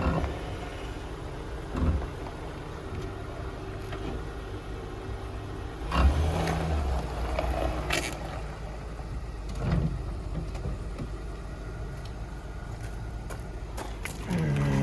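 Car engine running at low speed, with a few short thuds, the loudest about six seconds in, and a short falling low tone near the end.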